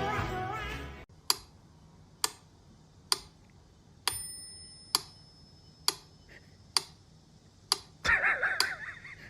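Clock ticking, sharp ticks a little under a second apart, some with a faint ringing edge. Music cuts off about a second in, before the ticking starts, and a louder, brief sound comes in near the end.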